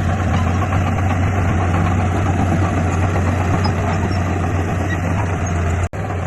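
Heavy diesel engine of earthmoving equipment running steadily with a deep, even drone, broken by a momentary gap near the end.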